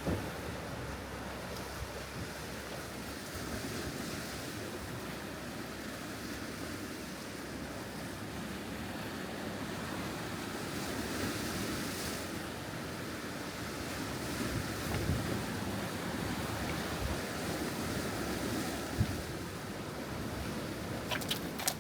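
Steady wash of ocean surf and wind, with wind buffeting the microphone. A few sharp clicks come near the end.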